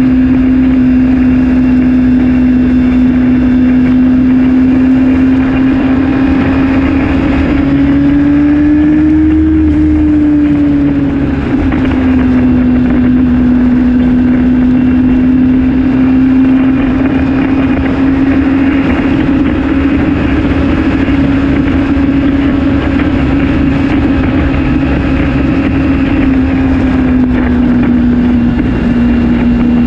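2008 Honda CBR600RR's inline-four engine running at a steady cruising speed, with wind rushing over the mirror-mounted camera. The engine note rises slightly and settles back about ten seconds in.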